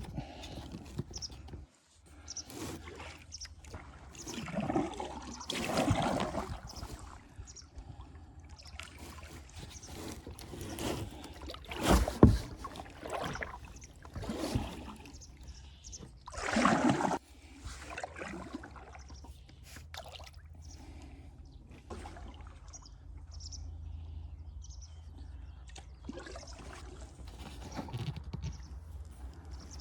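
Kayak paddling: irregular paddle strokes splashing and dripping in the water, with a few sharp knocks, the loudest about twelve seconds in.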